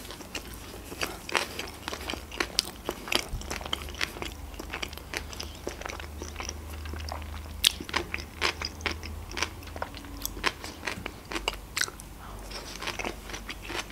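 A person chewing sushi rolls close to the microphone, with many small irregular mouth clicks and a few crunches.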